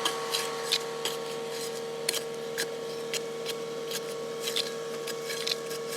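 Excavator running with a steady whine, while irregular sharp clicks and scrapes, like dirt and stones against the bucket, sound over it throughout.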